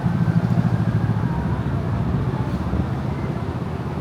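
Road traffic on the bridge: a steady rumble of cars that eases slightly over the few seconds.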